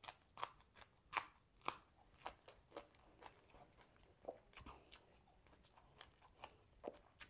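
Close-up chewing and biting into grilled chicken: a run of sharp, crunchy clicks, about two a second, closest together and loudest in the first three seconds.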